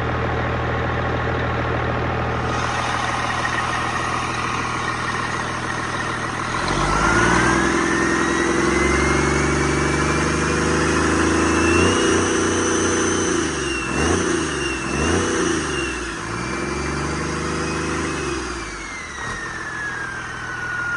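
1999 Cummins M11 Plus 11-litre inline-six diesel idling, then revved up at about six and a half seconds. It is held at high revs with a few dips and then eased back down toward idle. A whine rises with the revs and falls away as they drop.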